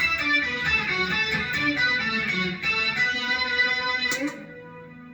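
Electric guitar played through a Boss SY-200 guitar synth pedal on its Octave Lead preset, with a Joyo American amp simulator and a little reverb, playing a quick run of lead notes. The playing stops a little over four seconds in and the last notes ring out and fade.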